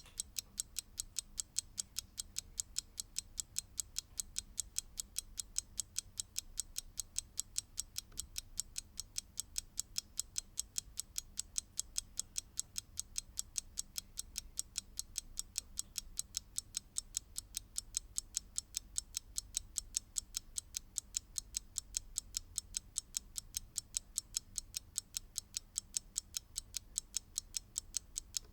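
Mechanical clock ticking, a quick, even train of crisp ticks that keeps a steady rate throughout.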